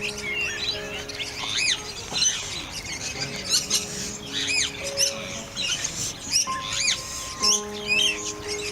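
Many birds calling, short high arching chirps and squawks coming several times a second, over background music with long held notes.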